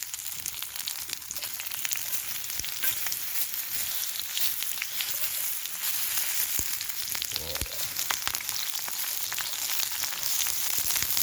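Onions frying in hot olive oil in a wrought iron skillet over a campfire: a steady sizzle with scattered crackles and pops.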